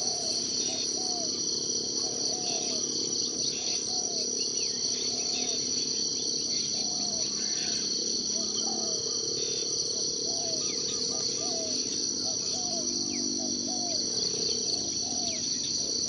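Forest ambience: a steady, high-pitched chorus of crickets or similar insects, with scattered short bird chirps and a short low call repeated more than once a second.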